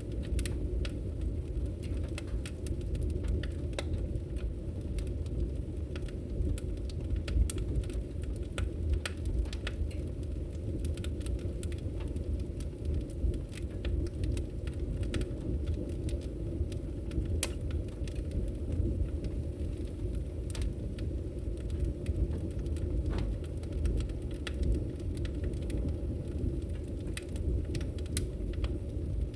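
Wood fire crackling in a fireplace: a steady low roar of the flames with irregular sharp pops and snaps, several a second.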